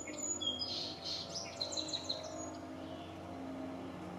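Songbirds chirping: short high calls and a quick run of notes in the first two seconds or so, then fading. Underneath, a low steady engine hum.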